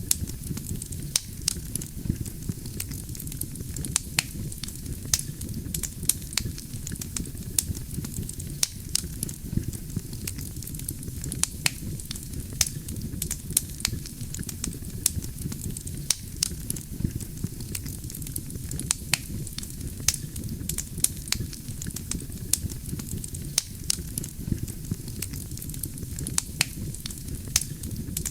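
Wood campfire burning: a steady low rumble of flames with many sharp crackles and pops from the burning logs, several a second.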